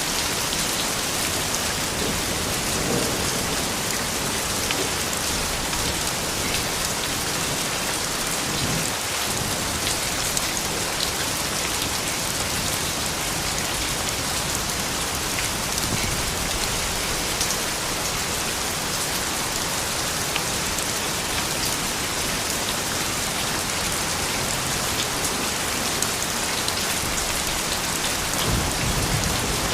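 Steady rain falling on a surface, an even hiss with fine drop ticks. A low rumble of thunder comes in near the end.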